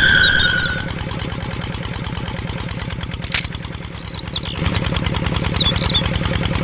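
Small engine running steadily with a rapid, even pulse, with high squeaks near the start and again in the second half, and one sharp click a little past three seconds in.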